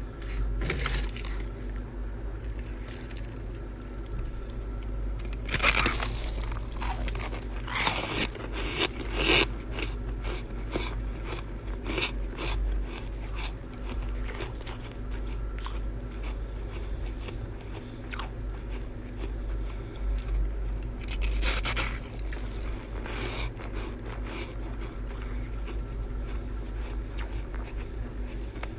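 Chest-freezer frost ice being scraped and crunched between the teeth: many crisp crunches with a few louder scrapes, over a steady low hum.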